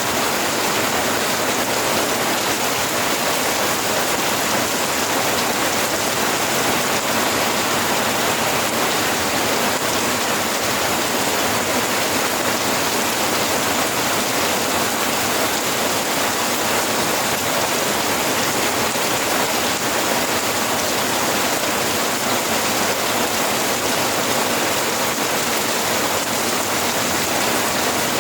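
Steady, heavy rain falling, an even hiss of many drops without a break.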